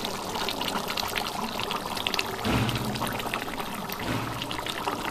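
Mutton curry bubbling in a pot on the boil: a dense run of small pops over a steady hiss. A low hum swells in twice, about halfway through and again near the end.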